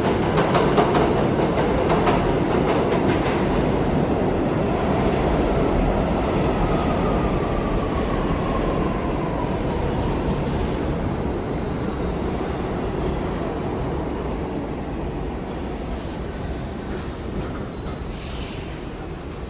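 New York City subway train moving along the station track, wheels clattering over rail joints for the first few seconds, then a rumble that slowly fades, with a faint falling whine partway through.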